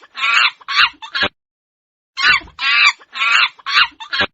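Monkey chattering in short, shrill calls: two bouts of about five calls each, with a pause of about a second between them.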